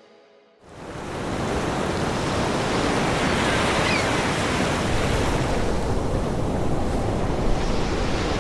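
Ocean surf washing in on a beach, a steady rush that fades in under a second in.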